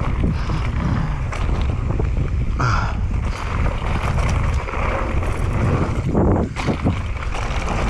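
Wind buffeting the microphone of a mountain bike descending a dirt trail, with tyre rumble and a few short knocks as the bike goes over bumps.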